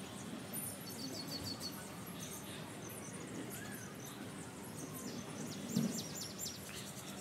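Small birds chirping and calling in quick high notes, with a short run of four falling chirps about a second in. A brief low sound near the end stands out as the loudest moment.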